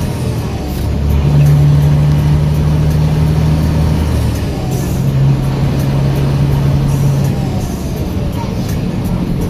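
Sand truck's diesel engine running under load with a steady low drone that drops in pitch about four and a half seconds in.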